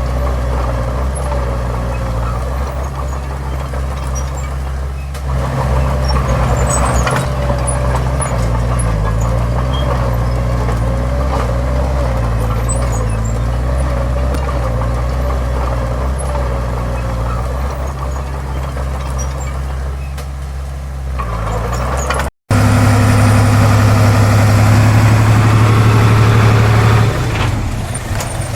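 Diesel engines of heavy earthmoving machinery running, their level rising and falling with the work. The sound breaks off briefly about three-quarters of the way through and comes back louder and steadier.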